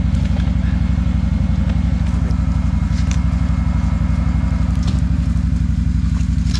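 ATV engine idling close by, a steady low, rapidly pulsing note.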